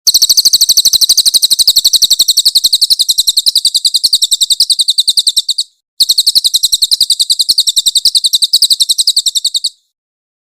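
Crested jay (cililin) calling: two long, rapid, high-pitched rattling trills of evenly repeated notes, the first about five and a half seconds long, then after a short break a second of about four seconds.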